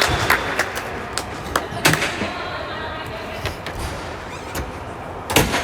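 A run of sharp knocks and thuds, a ball striking and bouncing on a hard playing surface, with the loudest hits about two seconds in and near the end, over indistinct voices.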